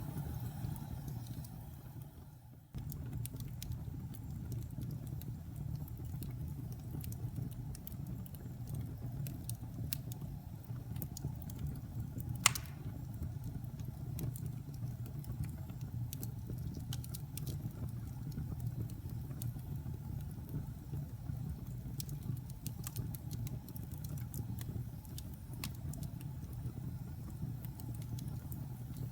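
Wood fire crackling in a fireplace: a steady low rumble with frequent small crackles, and one much louder pop about twelve seconds in. The sound fades out briefly and cuts back in about two and a half seconds in.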